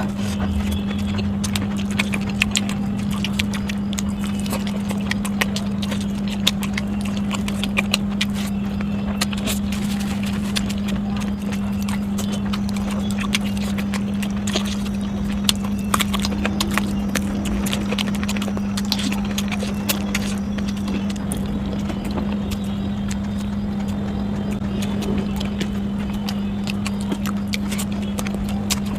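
Close-miked eating sounds: irregular wet clicks and smacks of chewing and mouth noise, over a steady low hum.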